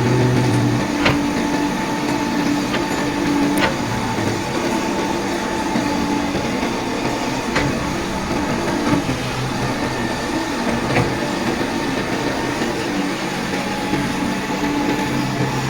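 Diesel engine of a backhoe loader running steadily, its hum rising and falling a little, with a few sharp metallic clanks.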